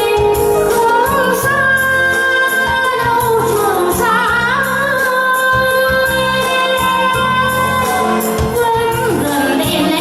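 Music: a woman singing a Vietnamese song with long held, wavering notes over a steady instrumental accompaniment.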